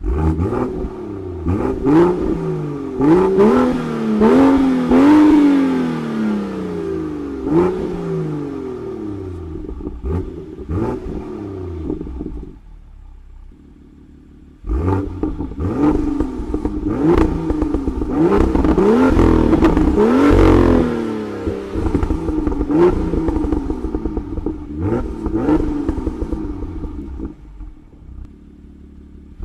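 2018 BMW M2 LCI's turbocharged inline-six through its stock exhaust, revved in repeated throttle blips, each a quick rise and fall in pitch, with sharp pops on some lift-offs. About halfway through it settles to idle for a couple of seconds, then the blips resume, held higher for a couple of seconds around two-thirds of the way in.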